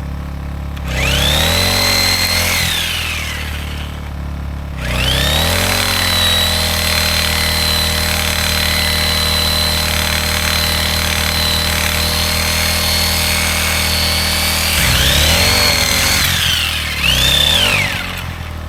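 Corded reciprocating saw cutting through a small tree trunk in three runs: a short one about a second in, a long steady one of about ten seconds, and a brief burst near the end. Its motor whine rises as the trigger is pulled and falls away as it is released, over the steady hum of the gas inverter generator powering it.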